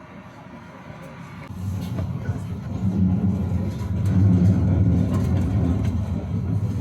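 Tram pulling away and gathering speed: a low rumble of motors and wheels on rail that grows louder from about a second and a half in.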